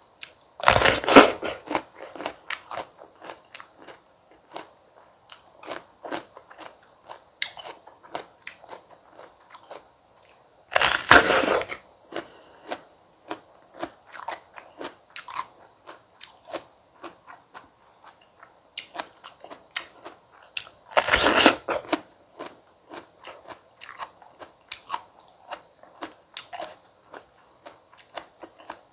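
Close-miked bites into crisp fruit: three loud crunches about ten seconds apart, each lasting about a second, with steady chewing and small wet mouth clicks in between.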